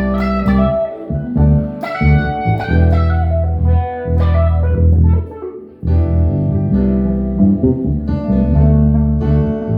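Guitar jam: plucked guitar notes ringing over deep, sustained low notes, with a brief break just before six seconds in before the playing resumes.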